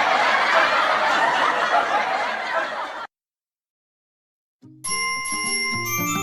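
A dense sound of children giggling and laughing, cutting off suddenly about three seconds in. After a second and a half of silence, a chiming, bell-like music intro starts.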